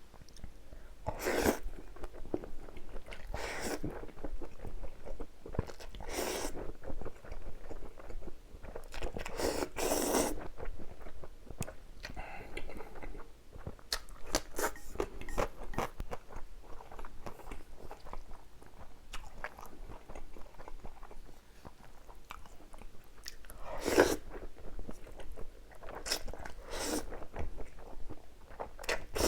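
Close-miked eating of spicy stir-fried instant noodles: wet chewing and small mouth clicks throughout, broken by about six louder, longer bursts of eating noise.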